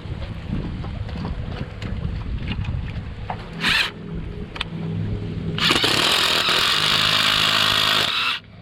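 Power drill run twice: a short burst a little before halfway, then a steady run of about three seconds that stops sharply shortly before the end, over a low steady hum.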